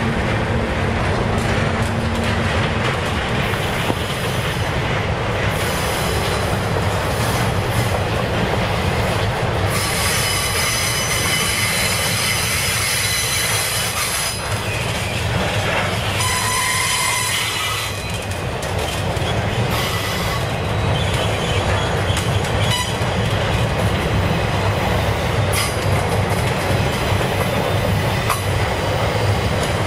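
Flatcars of a continuous welded rail train rolling past with a steady low rumble and wheel clatter. High metallic squealing sets in about ten seconds in and fades out around seventeen seconds.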